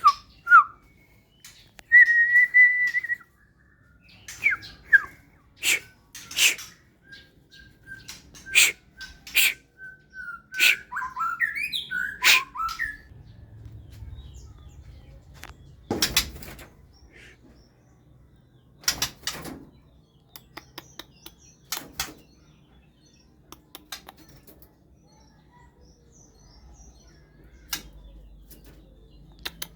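Songbird chirping and giving short whistled notes, including one held whistle a couple of seconds in; the calls thin out after the first half. Sharp clicks and taps are scattered throughout, with a duller thump about sixteen seconds in.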